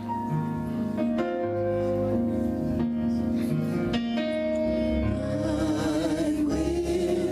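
Church worship team playing a slow song with held chords, a singing voice with vibrato coming in about five seconds in.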